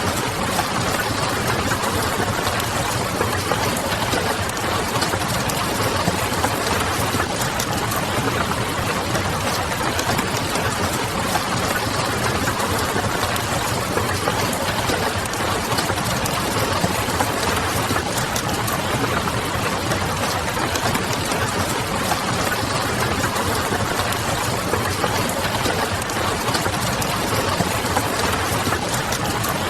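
Wood fire crackling over steady rain pattering on a window, with a low distant city hum underneath. It is a dense, even hiss dotted with small crackles that never lets up.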